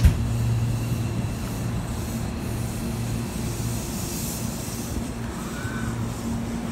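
Hankyu 1000 series electric train rolling slowly past the platform: a steady low hum with rolling noise from the wheels, and a brief high hiss about four seconds in. A single sharp click right at the start is the loudest moment.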